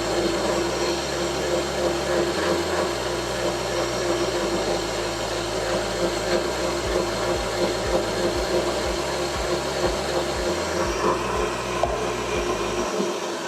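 Electric stand mixer running at a steady speed, its motor giving a constant hum as it beats cake batter.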